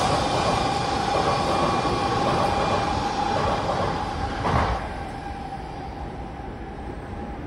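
N700S Shinkansen bullet train running past the platform: a loud rush of noise with a steady tone. The sound surges briefly as the last car goes by, about four and a half seconds in, then fades as the train moves away.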